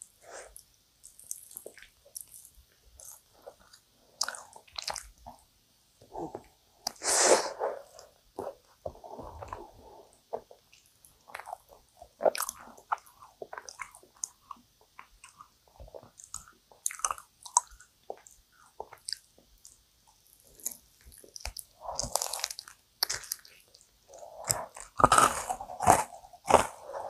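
Close-miked biting and chewing of dense, sticky yakgwa topped with ice cream: irregular wet smacks and small clicks, with louder chewing bursts about seven seconds in, again later on and near the end.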